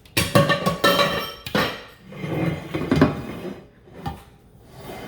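A utensil scraping and clinking against a metal pot while stirring a thick chicken pie filling, in two spells of clatter with a short pause between.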